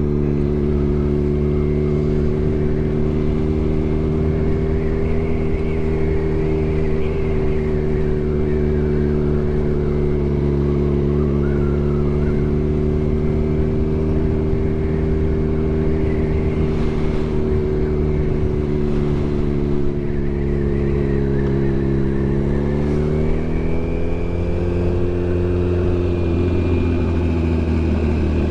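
Turbocharged Suzuki Hayabusa's inline-four engine running steadily at cruising speed, its revs climbing about twenty-two seconds in and easing back near the end.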